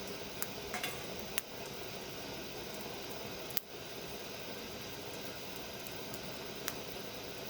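Wood fire burning in a Snow Peak Takibi-dai L fire stand: a steady hiss with a few sharp crackles and pops, the loudest about three and a half seconds in.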